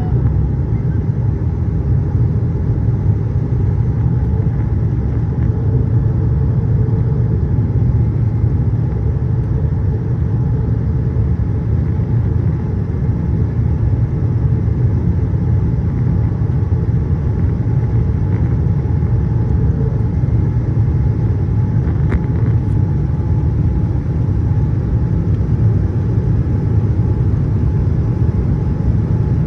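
Steady low rumble of a Boeing 787-8 airliner in motion, with a faint steady tone above it.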